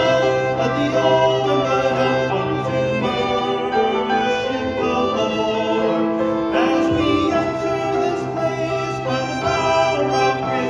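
Ensemble music: several instruments playing held, overlapping notes over a long held bass note.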